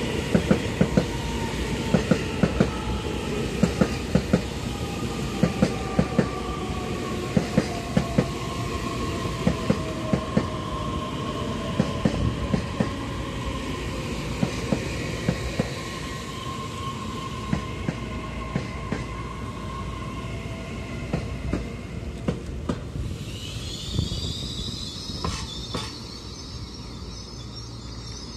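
EMU3000 electric multiple unit rolling into a station and slowing: wheels clacking over rail joints, the clacks spacing out, under a whine that falls slowly in pitch as the train decelerates. Near the end a high squeal starts as it draws to a stop.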